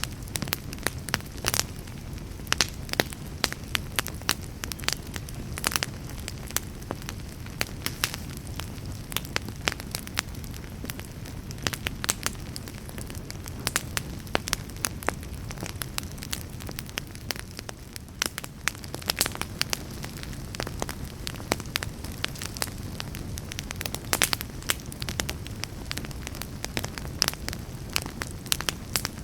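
Wood fire burning in a fireplace, with frequent irregular crackles and pops, several a second, over a steady low rumble of flame.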